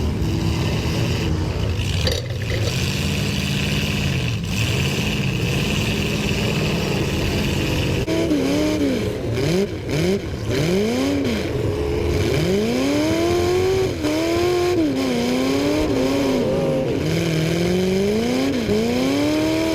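Demolition derby cars running together: a steady engine drone, then from about eight seconds in several engines revving up and down again and again, their pitches rising and falling over one another.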